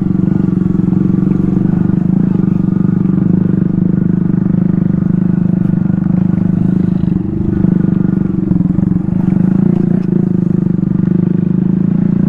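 Mini motorcycle's small single-cylinder engine running at a steady pace while being ridden, with slight dips in speed about halfway through and again near the end.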